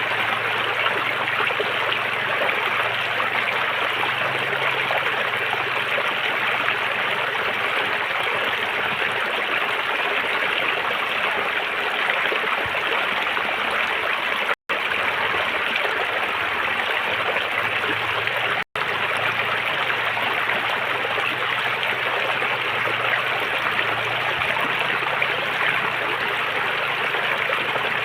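River water flowing in a steady, even rush. The sound cuts out for an instant twice, a little past halfway through, about four seconds apart.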